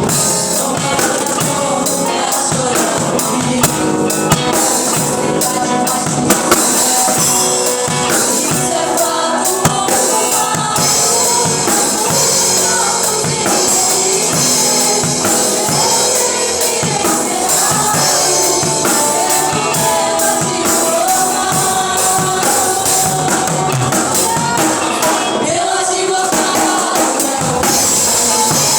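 Live gospel worship music: singing over a band with steady percussion.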